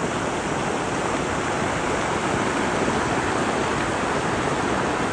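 Floodwater rushing steadily, an overflowing canal whose channel has become blocked.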